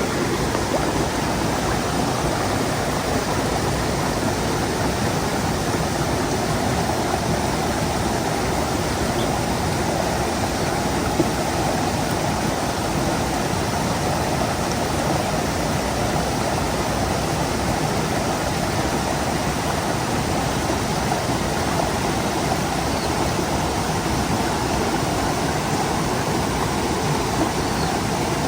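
Mountain stream flowing and splashing over rocks, a steady rushing of water.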